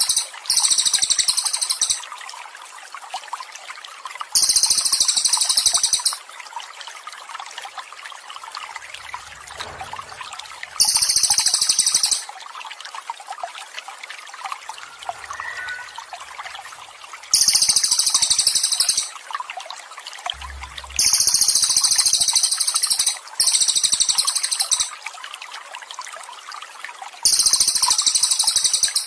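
Trickling water runs steadily under a small songbird's very high, rapid trill. The trill repeats seven times, each burst lasting about one and a half to two seconds, a few seconds apart, as in a masteran birdsong recording for cage birds.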